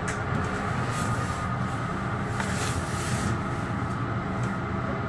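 Metro-North commuter train running along the rails, heard from inside the train: a steady low rumble with a faint steady whine and a few brief sharper noises over it.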